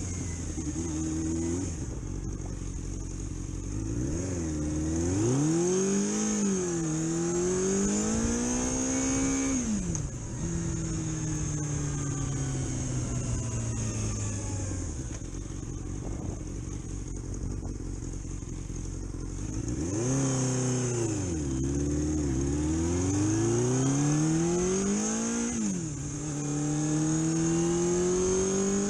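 Vehicle engine accelerating under load twice, its pitch rising, dropping sharply at a gear change, then winding down slowly, over a steady high hiss.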